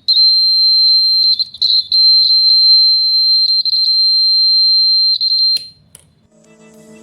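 Electronic buzzer of a homemade alarm circuit sounding one steady high-pitched tone. It dips briefly about a second and a half in, then cuts off with a click after about five and a half seconds.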